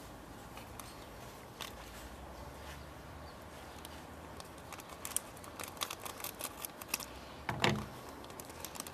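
Faint scattered clicks and crackles of plastic toy packaging being handled and cut open, growing busier in the second half, with a short low hum from a voice near the end.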